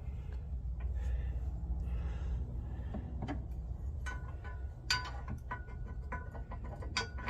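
Metal hardware and tools clinking and tapping, several strikes with a brief ring, most of them in the second half, over a steady low hum.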